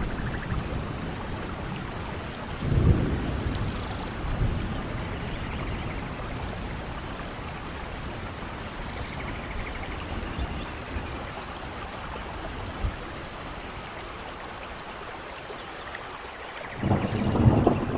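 Steady rain falling, with rumbles of thunder: a short one about three seconds in and a louder, longer one near the end.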